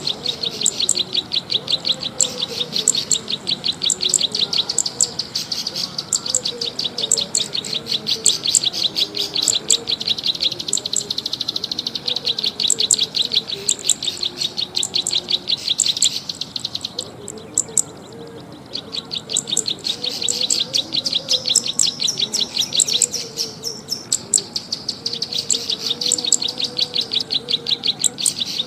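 Cisticola lure call: a fast, even run of sharp, high clicking notes, repeated with a short break about two-thirds of the way through, over a fainter wavering lower tone.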